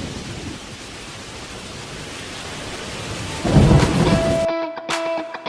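Steady rain with a loud rumble of thunder about three and a half seconds in, cut off abruptly a second later by electric guitar music.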